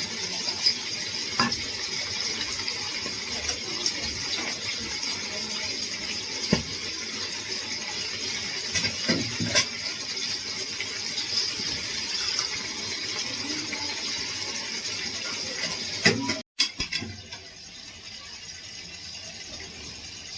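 Chicken sizzling in a cooking pot with a steady hiss, while a metal spoon now and then knocks and scrapes against the pot. About sixteen seconds in the sound cuts, and the hiss is fainter after that.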